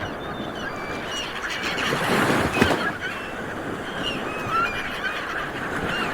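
A flock of seabirds calling: many short, high, overlapping cries over a steady rushing background noise.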